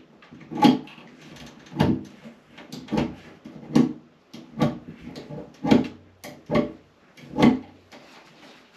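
A run of about eight short creaking knocks, roughly one a second, from hands working on the fan's wiring connections.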